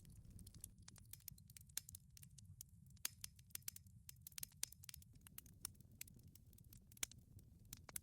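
Wood fire burning in a wood-fired pizza oven, crackling with many irregular sharp pops over a steady low rumble.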